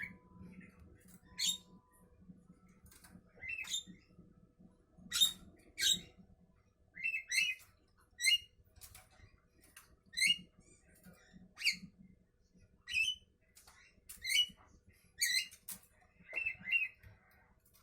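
Javan myna giving short, harsh squawking calls, repeated about once a second in an uneven series.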